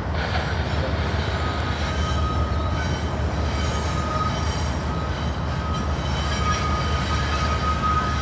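Freight train rolling past, its cars making a steady rumble, with a thin high wheel squeal that comes and goes.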